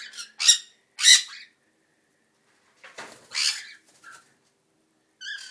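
Cockatiels giving several short, harsh squawking calls. The loudest come about half a second and a second in, another follows a couple of seconds later, and a short call comes near the end.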